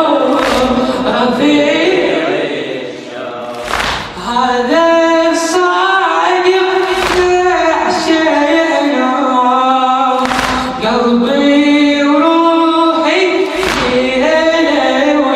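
Unaccompanied chanting of a Shia latmiya elegy: a male radood's voice with a group of voices, in long held, wavering notes. A heavy thump falls about every three seconds.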